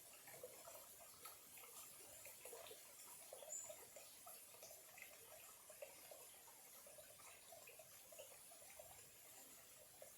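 Small clear-water stream trickling faintly, a steady scatter of little irregular gurgles and drips. There is a brief high peep about three and a half seconds in.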